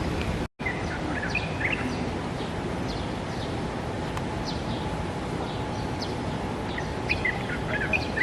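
Small birds chirping in short high calls, scattered through and bunched in two flurries, over a steady outdoor background noise; the sound cuts out completely for an instant about half a second in.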